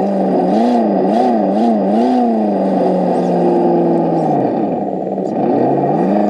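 Simulated engine sound from an ESS-One sound unit's small speaker on a radio-controlled scale truck. It revs up and down several times, holds steady, then drops low about five seconds in and climbs again, following the throttle.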